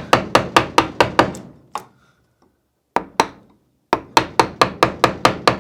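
Mallet tapping a carving gouge into a tough stick of wood in quick, even blows, about five a second. There are two runs of strikes, with a pause of about a second between them.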